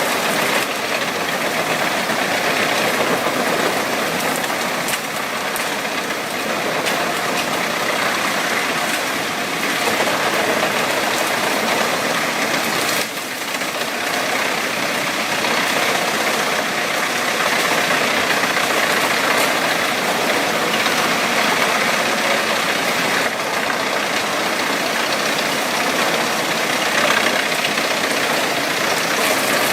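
Wood chipper running: a loud, steady mechanical din, with a brief dip about thirteen seconds in.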